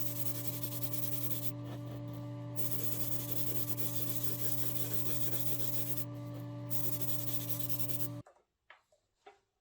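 Electric power tool running steadily with a humming motor and a gritty abrasive sanding noise, which fades twice for about a second as the tool eases off the work. The tool cuts off suddenly about eight seconds in, followed by a few light knocks.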